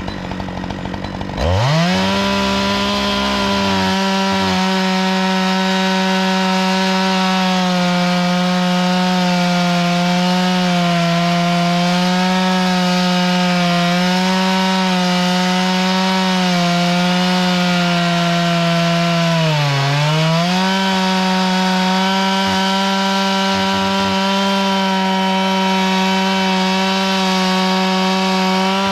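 Chainsaw revving up to full throttle about a second and a half in, then held there while it cuts through wood, as in chainsaw milling of a log. Its pitch sags briefly about 20 seconds in as the cut loads it down, then recovers.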